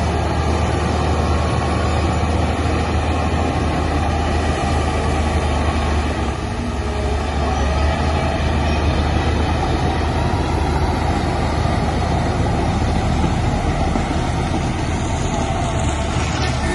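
Heavy diesel engine of earthmoving machinery running steadily, with a deep, even hum and no change in speed.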